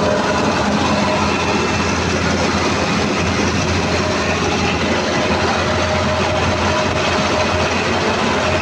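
CAT 320D2 L excavator's diesel engine running steadily at about 1800 RPM, an even, loud drone. The engine will not rev higher, which the mechanic suspects is caused by the throttle cable being at full travel or a stopper.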